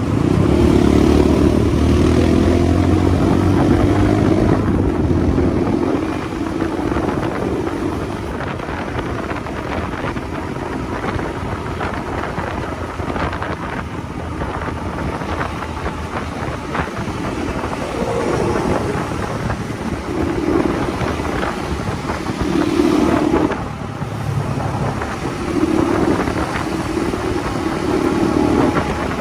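Motorcycle engine running while riding, rising in pitch as it accelerates over the first several seconds. After that mostly road and wind noise, with the engine note coming up again in a few short spells of throttle.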